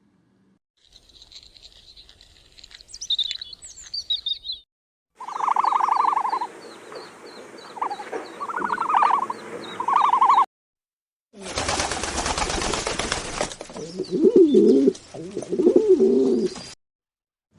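Three short animal-sound clips, each cut off abruptly. First comes high chirping. Then a noisy clip with a few pulsed, mid-pitched bird calls, and last a noisy clip with lower, wavering animal calls.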